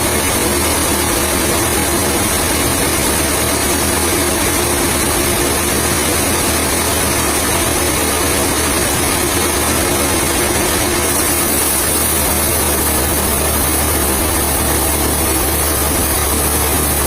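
Heavy machinery engine running steadily at a constant speed, a loud even drone with a high hiss over it that shifts slightly about two-thirds of the way through.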